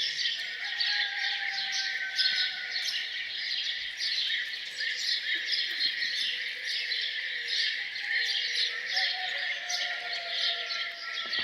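Morning chorus of many small songbirds chirping and twittering continuously, with a few fainter, long drawn-out calls lower in pitch in the background.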